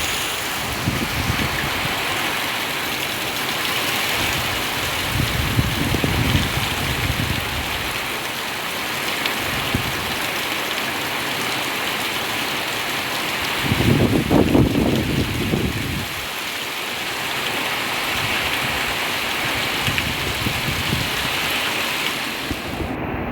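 Heavy rain pouring steadily, with strong wind gusting and buffeting the microphone, the strongest gust about 14 seconds in.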